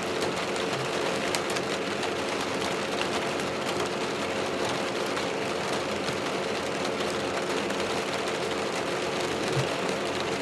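Steady rain falling on a truck camper, with the even hum of a Ryobi fan running inside.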